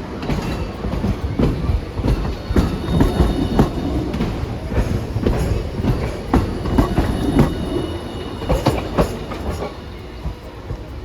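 Hiroshima Electric Railway streetcar wheels clacking over rail joints and points in a rapid, irregular run, with a faint high wheel squeal. The clacks die away about nine and a half seconds in.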